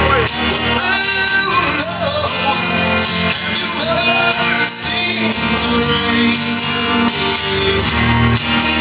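Rock band playing live: a man singing over guitars and a steady band backing.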